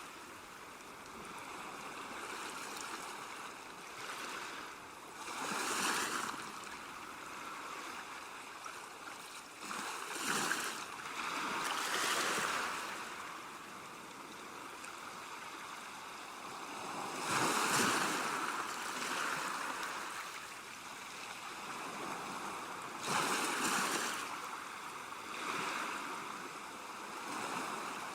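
Sea waves washing in on the shore: a continuous hiss of surf that swells into a louder wash every few seconds, about six times, and then ebbs.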